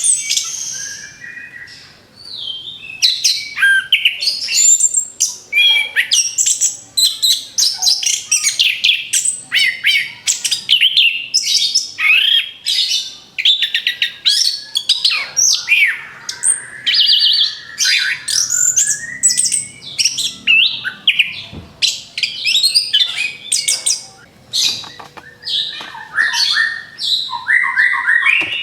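Orange-headed thrush (anis kembang) singing a long, unbroken song of rapid chirps, trills and whistled sweeps, one quick phrase after another, in the fast-firing 'tembakan beruntun' style. Near the end the phrases drop lower and repeat in short runs.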